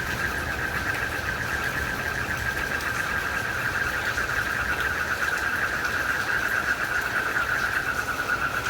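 Crickets trilling in a steady, unbroken chorus at one high pitch, over a faint even hiss of rain.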